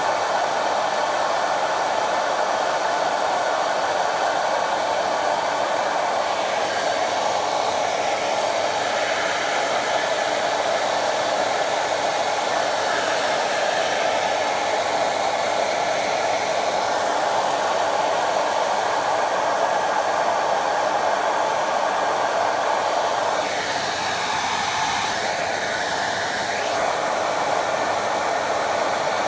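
Vidal Sassoon Hot Tools hair dryer running with a steady rushing blow. Its level dips slightly and its tone shifts for a few seconds near the end.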